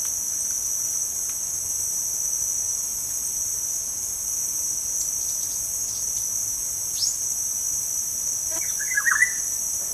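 Insects chirring steadily in a high, continuous drone, with a short falling whistle about seven seconds in and a quick burst of bird calls near the end.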